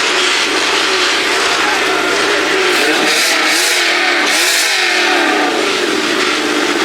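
Car engine revving loudly, its pitch rising and falling several times about three to five seconds in.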